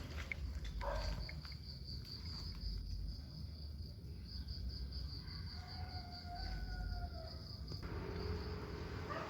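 Insect chirping: a steady, high-pitched pulsing trill that runs on without a break, over a low outdoor rumble.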